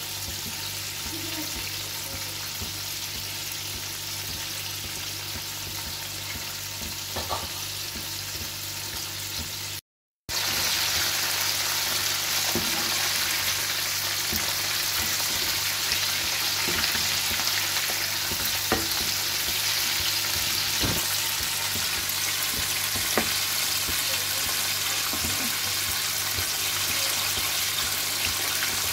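Floured chicken pieces deep-frying in hot oil in a pan: a steady sizzle, with a few clicks as metal tongs turn the pieces against the pan. The sizzle drops out for a moment about ten seconds in and comes back louder.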